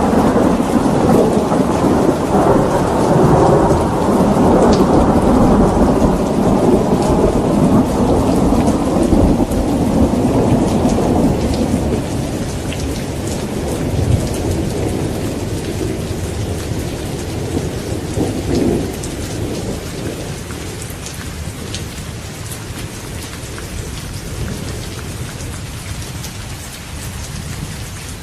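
Thunderstorm: a long roll of thunder rumbles loudly through the first half, then fades away slowly from about halfway, over steady heavy rain with drops pattering on a surface.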